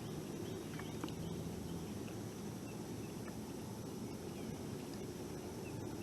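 Outdoor ambience on a pond from a kayak: a steady low rumble with a few faint clicks and short, high chirps scattered through it.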